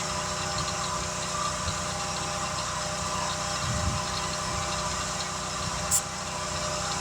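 A motor running steadily at an even idle, with one sharp click about six seconds in.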